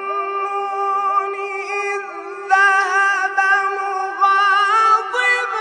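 A solo voice singing long, held high notes with wavering ornaments, growing louder about halfway through.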